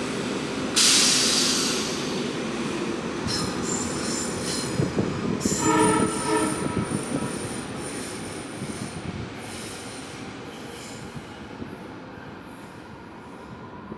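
A train running through a station. A loud, sharp hiss about a second in, then high-pitched wheel squeal from the rails, a short horn-like chord around the middle, and a rumble that fades away.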